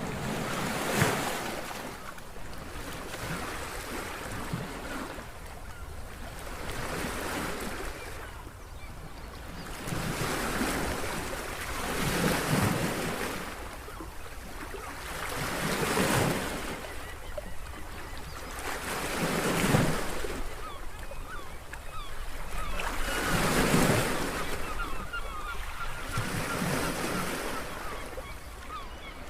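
Sea waves washing in and drawing back in slow surges about every four seconds, with wind.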